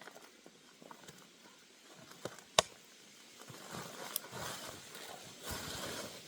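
Hikers moving about on a trail: scattered small clicks and rustling from footsteps and gear, with one sharp click about two and a half seconds in and a stretch of louder rustling in the second half.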